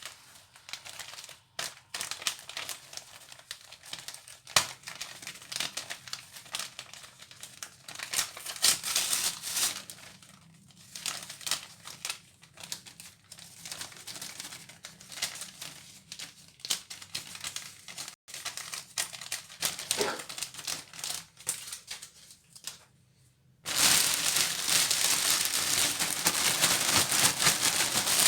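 Plastic packaging crinkling and rustling in irregular handling. About 23 seconds in it turns suddenly into a much louder, dense, continuous crinkling that keeps going.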